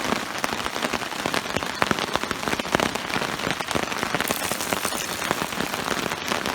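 Sudden heavy summer downpour: a steady hiss of rain with a dense, irregular stream of sharp raindrop hits.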